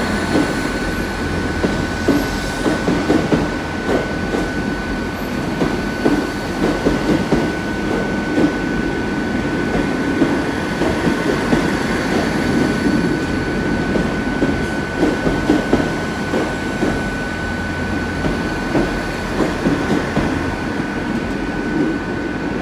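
South Western Railway Class 159 diesel multiple unit running slowly into the platform, its wheels clattering irregularly over the rail joints and points, with a steady high-pitched whine throughout.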